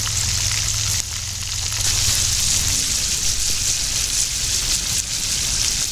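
Breaded catfish pieces deep-frying in hot oil in a cast-iron skillet, a steady hissing sizzle.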